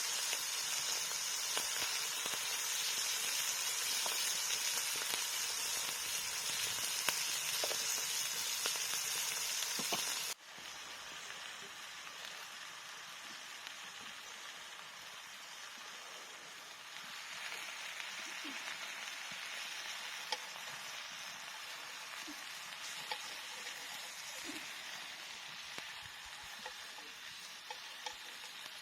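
Wood fire burning with a steady hiss and scattered small crackles. The sound drops abruptly to a quieter level about ten seconds in.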